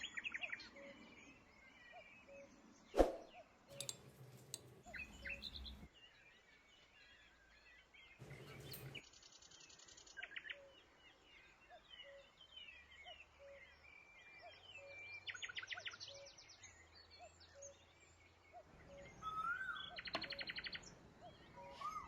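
Several birds chirping and singing, with short trills and whistled calls throughout and a faint short note repeating about every half second. There is one sharp click about three seconds in.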